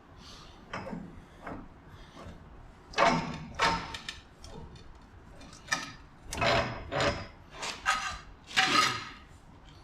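Hand work on a truck's front suspension: a series of short scraping and clanking strokes of metal tools and parts being handled, about eight of them in the second half.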